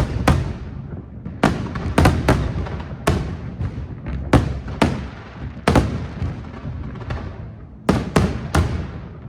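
Firework shells bursting in quick, irregular succession, more than a dozen sharp bangs, each trailing off in an echoing boom, over a continuous low rumble.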